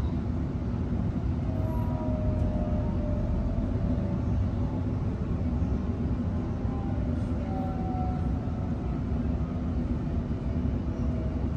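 Steady rumble of a Sydney Trains Millennium electric train heard from inside the carriage, wheels running on the rails. Faint whines gently fall in pitch as the train slows into a station.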